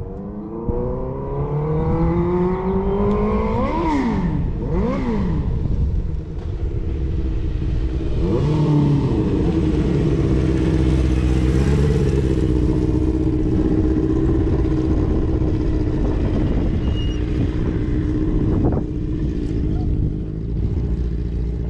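Suzuki GSX-R600 sport bike's inline-four engine accelerating with a rising pitch for about four seconds, then swinging up and down twice. It then settles to a steady pitch for about ten seconds, with a sharp click near the end.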